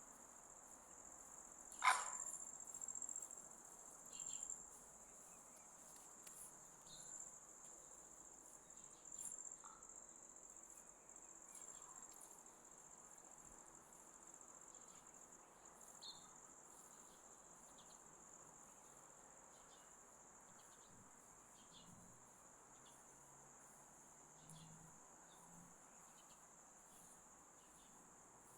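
Faint, steady, high-pitched insect trill, with short soft chirps about every second and one sharp click about two seconds in.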